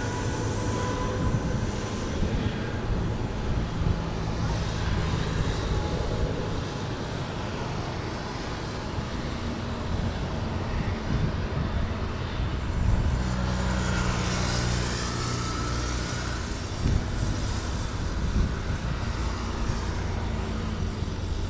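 CASA C295 twin turboprop under takeoff power: a continuous engine and propeller drone with steady low tones that shift partway through.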